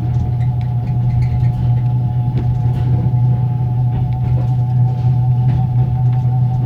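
A passenger carriage's axle-driven generator whining at a steady high pitch over a low rumble, heard inside a closed compartment, with faint light knocks from the wheels.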